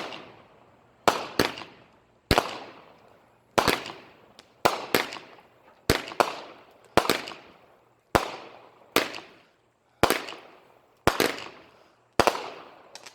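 Fireworks going off in a rapid string of sharp bangs, about one a second, some in quick pairs, each fading out in a short echo.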